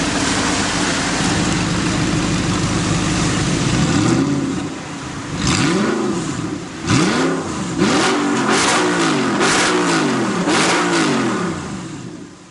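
Audi R8's 4.2-litre V8 through a Capristo valved aftermarket exhaust. It runs steadily for a few seconds, then is revved in a series of about seven quick throttle blips, each rising and falling in pitch, before dropping back toward idle near the end.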